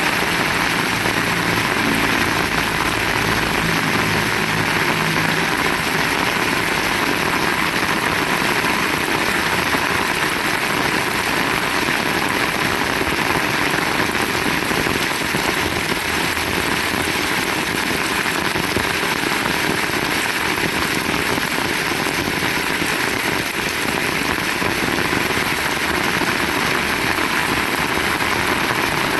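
Heavy rain pouring steadily, an even hiss with no let-up. A faint low hum sits under it for the first several seconds.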